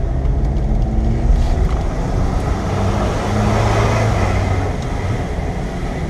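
Car engine pulling up a steep mountain road, with tyre and road noise, heard from inside the cabin. The engine note shifts a little about halfway through.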